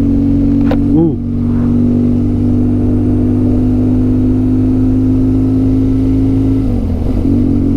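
Motorcycle engine running at a steady cruising pitch, heard from on the bike. Near the end its note dips and wavers.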